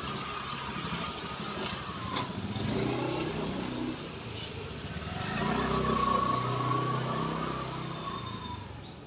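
Motor vehicles passing on a road, two swells of engine noise one after another, each rising and fading.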